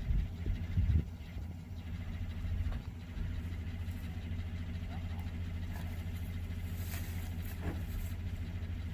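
Pickup truck engine running steadily at low revs, with a few knocks in the first second or so.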